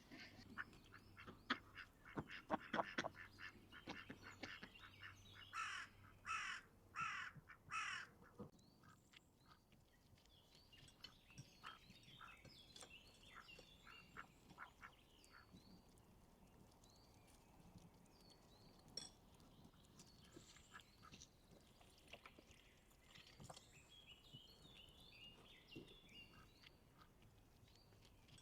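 Birds calling: a run of four harsh calls about six seconds in, then faint, scattered chirps. Light clicks and taps in the first few seconds.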